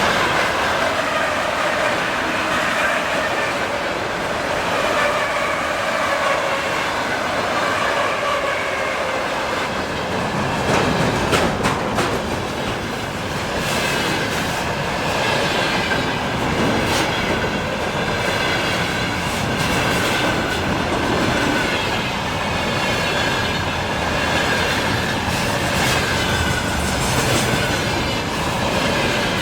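Freight train wagons rolling past at speed: a steady rumble and rush of wheels on rail, with clickety-clack of wheels over rail joints and a thin steady squeal from the wheels. The clacking grows more distinct about a third of the way in.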